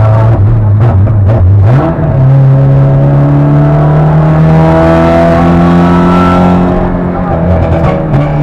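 Rally car's engine heard from inside the cabin, pulling under load: the revs step up about two seconds in and keep climbing slowly, then ease off near the end.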